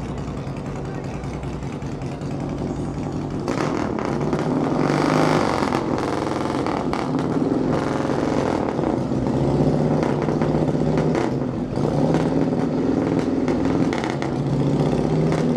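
A car engine running and revving close by, getting louder about three and a half seconds in.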